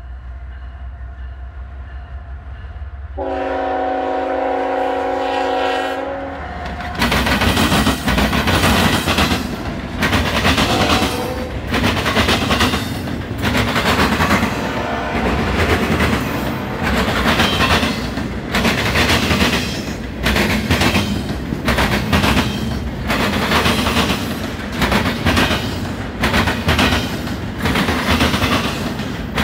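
Norfolk Southern diesel locomotive approaching with a low rumble and sounding one long multi-note air horn chord about three seconds in. From about seven seconds the locomotive and the double-stack intermodal well cars pass close by: loud rolling noise with a steady, irregular clatter of wheels over the track.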